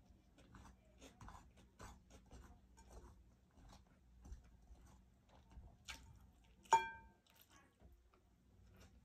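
Faint, close chewing and mouth clicks of someone eating grilled chicken and rice by hand, with soft ticks of fingers picking at the food. Late on, one short ringing clink stands out as the loudest sound.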